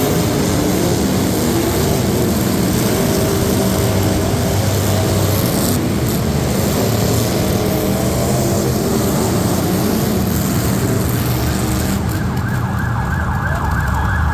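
Competition truck engine running hard at high revs, its pitch wavering up and down, with a steady high tone joining near the end.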